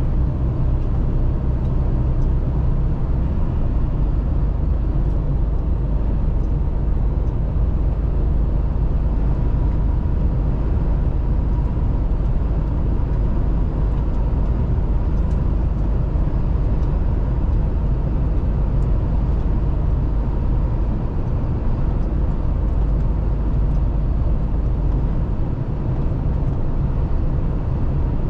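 Mercedes-Benz Actros truck on the move: a steady low drone of engine and road noise.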